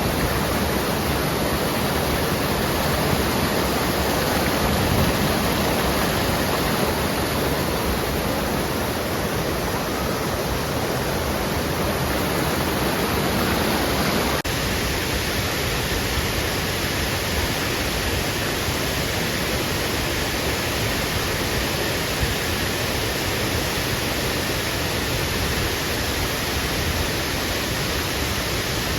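Waterfall: a steady, even rush of falling water, its tone changing abruptly about halfway through.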